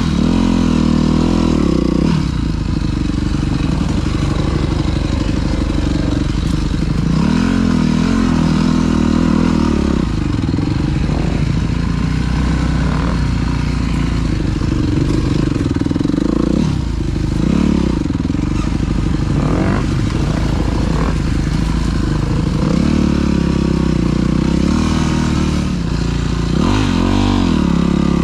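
Dirt bike engine running under load while being ridden, its pitch rising and falling over and over as the throttle is opened and eased off.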